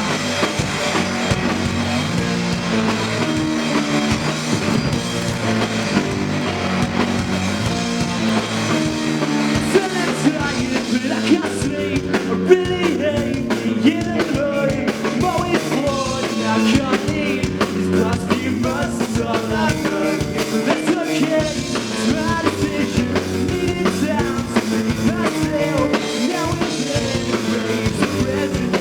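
A rock band playing live: a drum kit driving steadily under electric guitars, in a stretch of the song with no clear lyrics.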